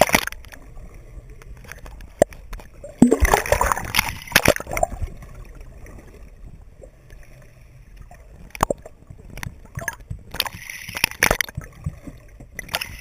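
Water splashing and sloshing around a camera held underwater, with sharp knocks and two bursts of gurgling, the first about three seconds in and the second near the end.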